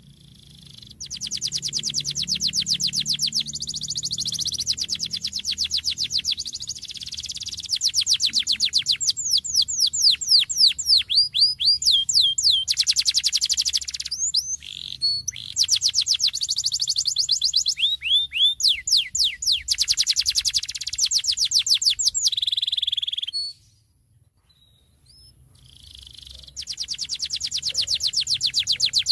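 Domestic canary singing in long rolling trills of rapid repeated notes, some as quick sweeping glides, in high, bright phrases. The song breaks off briefly once, then falls silent for about two seconds near the end before starting up again.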